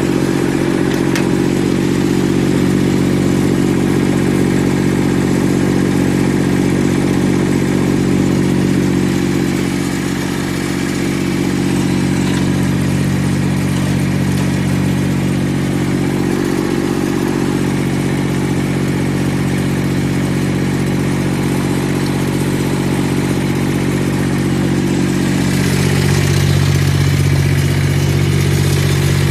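Diesel engine of a Yanase 11-17HD snowblower running steadily, its note dropping a little about four seconds before the end.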